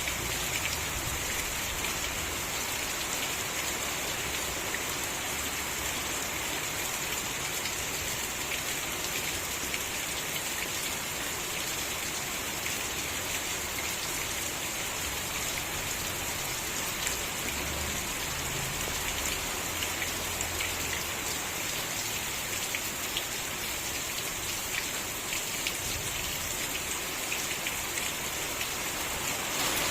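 Steady rain falling, a dense patter of drops on surfaces with an even hiss.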